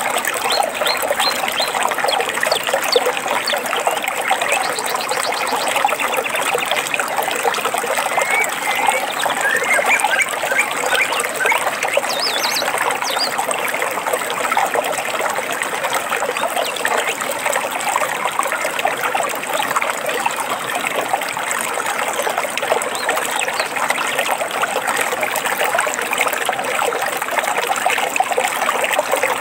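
Small stream of water trickling and splashing steadily, with a few bird chirps over it about a third of the way in.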